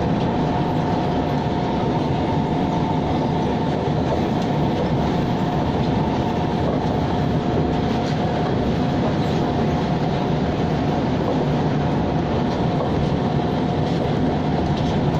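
Siemens-built C651 electric train heard from inside the carriage while running at steady speed: a constant rumble and rolling hiss of the wheels on the rails, with a steady high whine over it.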